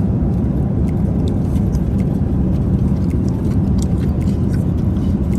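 Steady in-flight cabin noise of an Airbus A380-800 at cruise: a dense, even low rush of airflow and engine noise. A few faint, short clicks sit on top of it.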